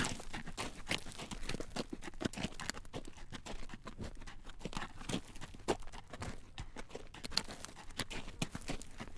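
Horse's hooves clip-clopping on a road as it draws a carriage, a busy run of sharp clacks.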